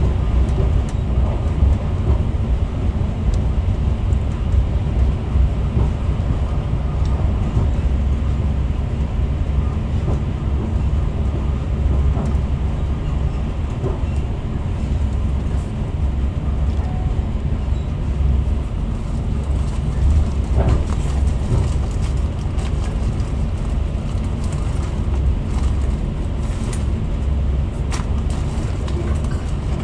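Running noise inside a Class 68-hauled passenger coach at speed: a steady low rumble of wheels on rail, with a few faint clicks.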